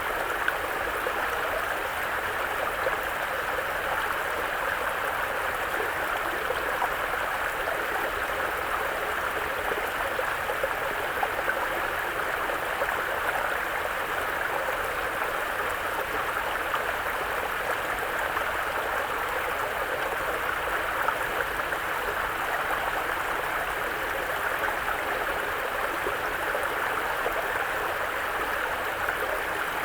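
Mountain brook flowing over rocks: a steady babble of running water, unchanging in level.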